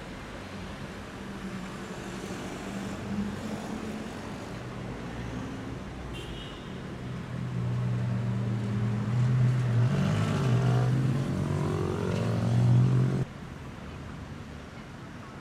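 Ferrari SF90 Stradale's twin-turbo V8 running at idle. About halfway through it steps up to a louder, fuller idle with a few small pitch wobbles around ten seconds in, then cuts off suddenly near the end.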